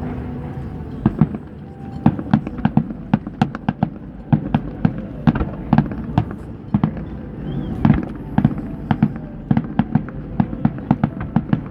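Fireworks display exploding: a rapid, irregular string of sharp bangs, several a second, over a continuous low rumble.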